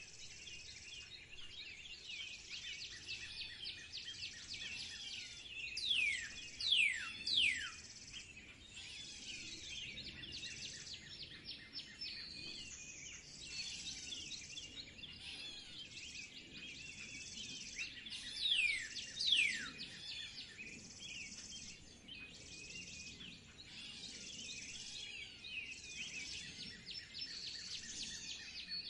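A chorus of small birds chirping and twittering without pause, with loud, sharply falling whistled calls, three in quick succession and later two more.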